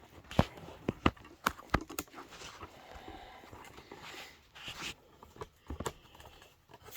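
Hands working on the side-by-side's panels and plastic clips: a quick series of sharp clicks and light knocks over the first two seconds, then scuffing and a few more clicks near the end.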